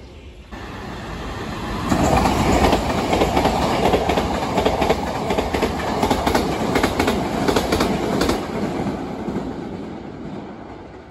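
Hankyu 9000 series electric train passing through the station at speed without stopping. A rumble builds, then several seconds of loud wheel-and-rail noise with rapid clicking over the rail joints, then it fades as the train recedes.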